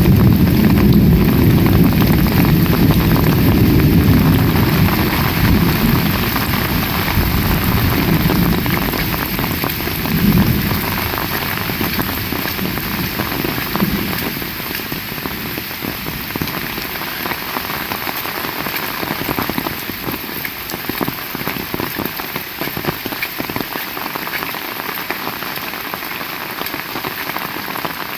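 Heavy rain falling, a steady dense hiss of drops. A low rumble sits under it at first and fades away over the first dozen seconds.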